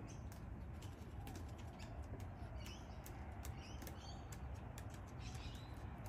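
Faint bird chirps, a few short high calls around the middle, over many soft sharp clicks and a steady low rumble.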